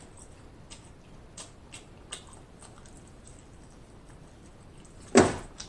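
Close-up chewing and biting on a chicken wing: soft wet mouth sounds and a few small crunches, then a sudden loud thump near the end.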